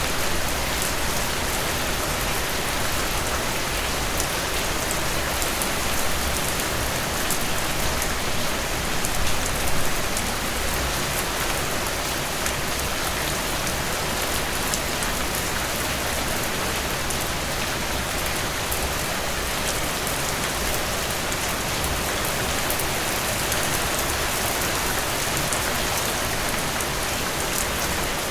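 Heavy rain falling steadily, a dense, even downpour with close drops pattering on a surface.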